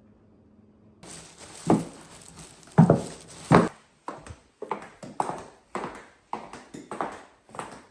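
A run of sharp knocks on a hard surface: three louder ones in the first few seconds, then lighter ones at a steady pace of about two a second, like footsteps on a hard floor.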